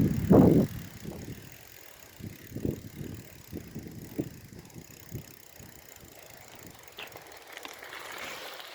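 Bicycle riding over bumpy ground, with irregular knocks and rattles from the bike.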